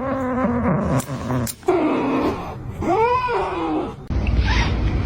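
A cat giving drawn-out meows that glide in pitch, one falling and the next rising then falling.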